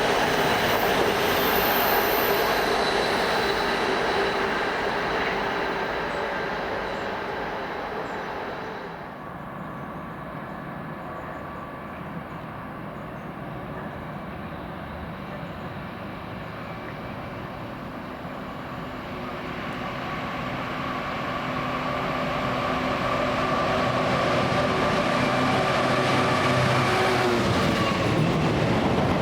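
Trains running through a station: the sound of one fades away over the first nine seconds or so, and from about twenty seconds in a train's sound grows louder again as it approaches.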